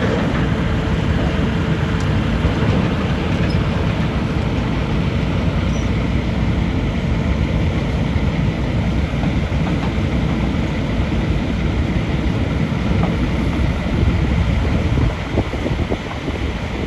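Steady low engine rumble of heavy machinery running, with a faint steady hum over it; it eases slightly near the end.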